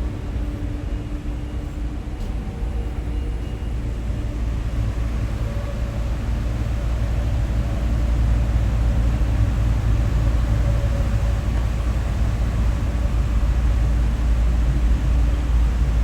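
A steady low rumble with a faint hum in it, getting a little louder about halfway through.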